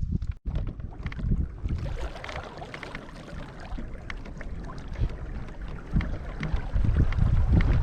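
Water splashing and sloshing against a kayak, with a gusting rumble of wind on the microphone that grows louder near the end.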